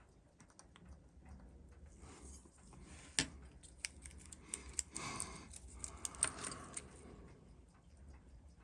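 Light metallic clicks and clinks of small tools and parts being handled on a work bench: one sharp click about three seconds in, then a quick cluster of clicks with light rattling in the middle.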